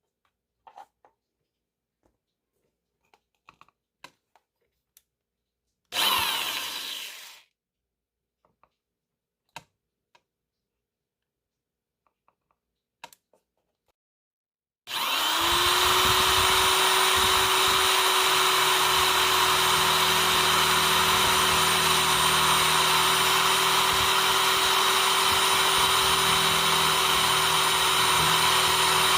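A small electric power tool: a brief run of its motor about six seconds in, then it starts up again about halfway through and runs steadily at one pitch. Light taps and handling clicks come before it.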